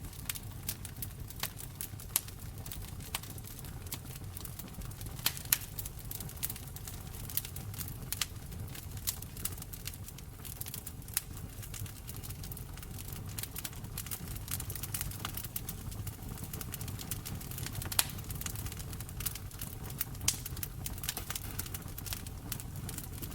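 Wood fire in a fireplace crackling: a steady low rumble of the flames under many irregular sharp snaps, with a few louder pops.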